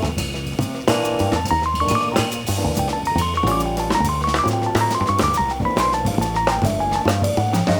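Live jazz band playing: drum kit with frequent cymbal and drum strokes, a bass line underneath, and a quick single-note melody line climbing and falling in steps.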